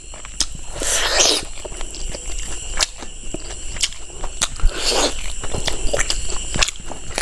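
Close-miked eating of curried pork ribs: wet chewing and lip smacking with many sharp clicks, and two longer hissing sounds, about a second in and about five seconds in.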